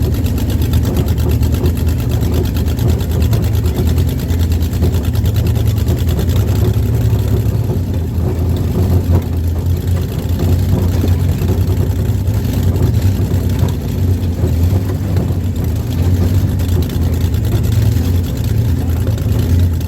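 Demolition derby car's engine running steadily, a loud, low-pitched, unbroken sound.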